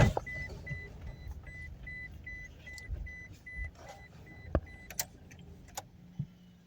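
Inside the cab of a 2015 Toyota Hilux Vigo 2.5 L pickup while driving: low road and engine rumble, a dashboard warning beeping rapidly at about three beeps a second, which stops near five seconds in. A few sharp cracks stand out, the loudest about four and a half and five seconds in: the cracking noise the owner is chasing while driving.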